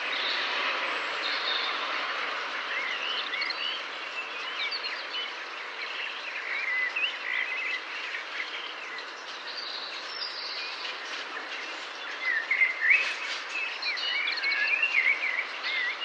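Several small birds chirping and twittering, many short overlapping calls over a steady background hiss. The calls are busiest and loudest about three quarters of the way through.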